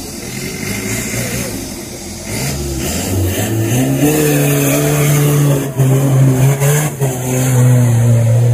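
4x4 off-road vehicle's engine revving: the pitch climbs a couple of seconds in, then stays high with a couple of brief dips.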